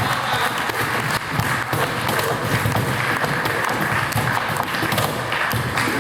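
Unamplified flamenco percussion: rhythmic hand clapping and the low thumps of a cajón, over the noise of a crowd.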